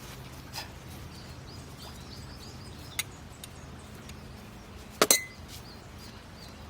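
Hard objects clinking: a couple of light ticks, then a loud double clink with a brief ring about five seconds in. Faint high chirps come about two seconds in, over a steady low hum.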